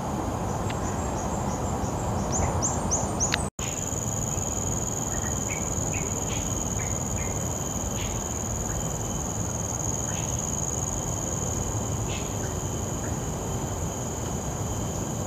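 Steady high-pitched insect drone with short bird chirps now and then. In the first few seconds a quick series of high, falling chirps speeds up, then everything cuts off abruptly for an instant about three and a half seconds in.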